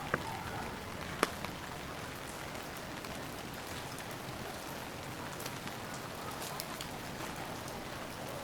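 Steady rain falling on a city street, with a few sharp drip ticks scattered through it, the loudest about a second in.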